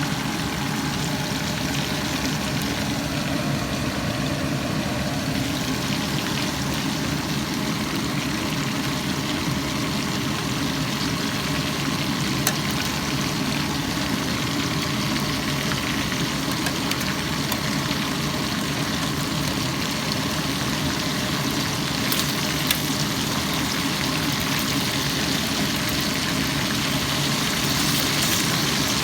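Steady, unchanging hum of an engine running at idle, with a few faint clicks.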